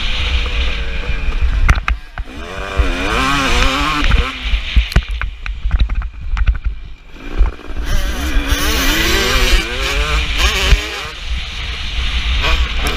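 KTM SX 250 two-stroke motocross bike being ridden hard: the engine revs up and drops off again and again as the throttle is worked, going quieter briefly about two seconds in and again around the middle.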